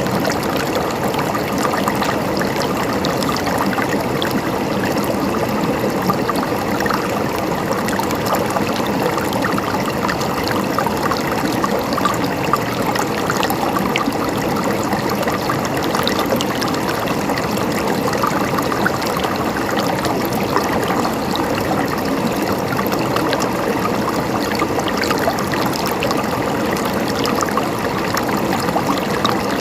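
River water flowing and burbling over rocks, a steady rush with small splashes and trickles.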